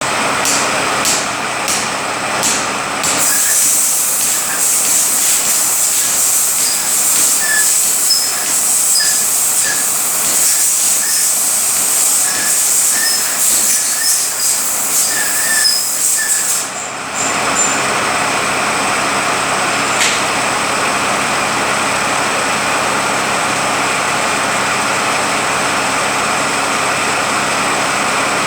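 Rebuilt Eaton Fuller RTLO-18918B 18-speed truck transmission running on a dyno test stand. For the first half there is a loud hiss with short repeated chirps. About two-thirds of the way through it settles into a steadier whine.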